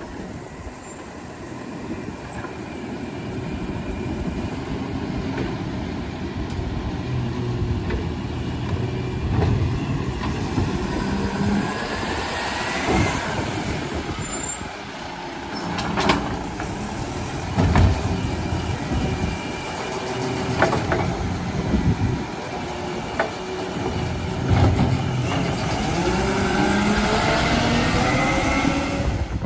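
Garbage truck at work: its diesel engine runs and revs with rising whines, and sharp clunks come a little past the middle.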